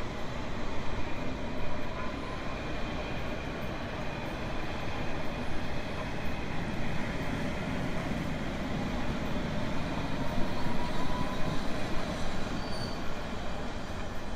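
Train running on rails: a steady rumble with faint, slightly wavering high tones from the wheels.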